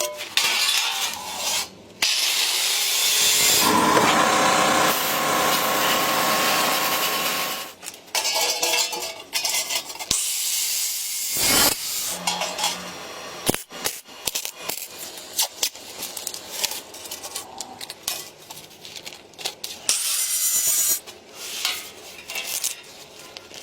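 Hand-tool work: scraping, rasping strokes of cutting or filing. There is a long unbroken stretch near the start, then shorter, irregular strokes.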